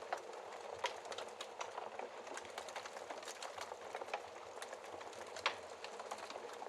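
Wood fire burning behind a fireplace glass shield: a steady hiss with frequent small, irregular crackles and a few sharper pops, the loudest about five and a half seconds in.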